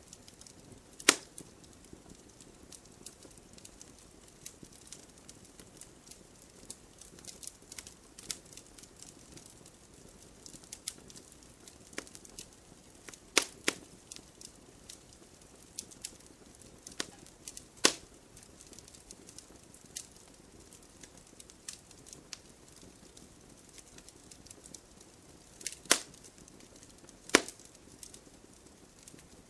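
Campfire crackling: scattered sharp pops and snaps, about five loud ones standing out above the rest, over a faint steady hiss of the burning fire.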